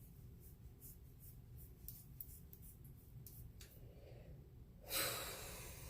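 Faint scratchy rustling and small clicks, like hair being worked with a comb or fingers, then about five seconds in a sudden loud breathy hiss that fades over about a second.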